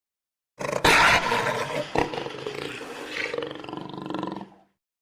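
Lion roaring: one long roar starting about half a second in, loudest at its start and trailing off before the end.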